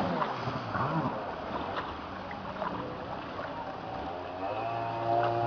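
Jet ski engine running over the rush of water. A steadier engine note comes in about four and a half seconds in.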